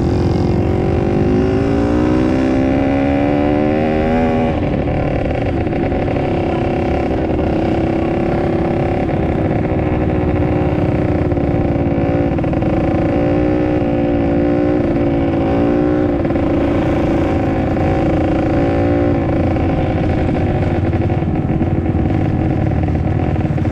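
Dirt bike engine running hard in an ice race, revving up over a few seconds near the start, then held at high revs with small rises and dips as the throttle changes.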